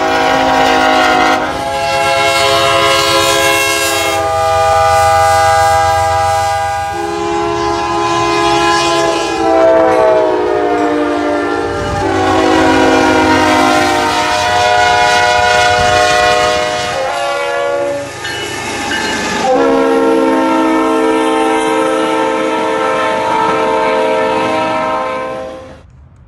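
Locomotive multi-chime air horn sounding a long series of drawn-out blasts, close and loud. A short break or pitch dip comes every few seconds, over the low rumble of the train.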